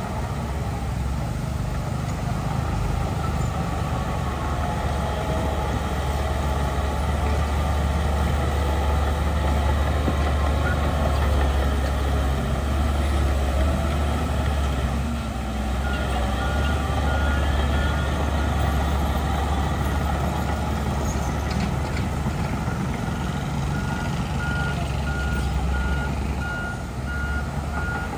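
Heavy diesel earthmoving machinery running with a deep, steady engine rumble. A reversing alarm beeps evenly for a couple of seconds a bit past halfway, then again near the end as a machine backs up.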